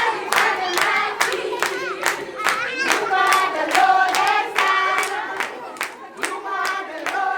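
A group of children singing together, clapping in time at about two and a half claps a second.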